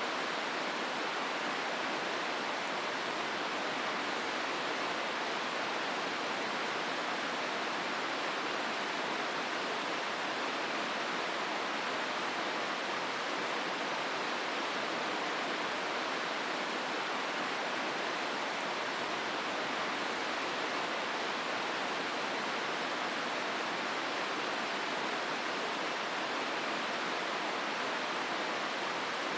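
River water rushing through a rocky gorge: a steady, even rush with no let-up.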